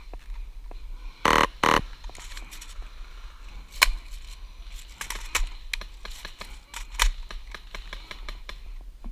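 Two short bursts of airsoft gunfire about a second and a half in, then scattered sharp clicks and rustling.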